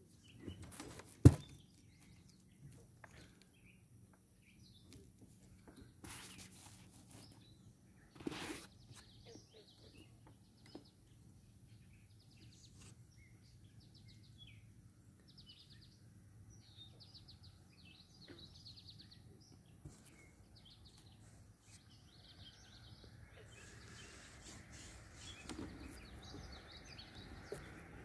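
Small birds chirping and singing in short phrases over a quiet outdoor background. There is one sharp click about a second in, and a soft hiss grows near the end.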